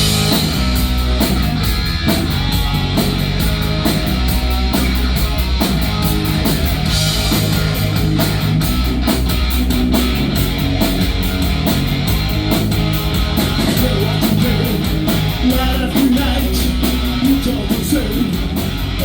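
Live rock band playing an instrumental passage without vocals: electric guitar over sustained bass notes and a steady drum beat.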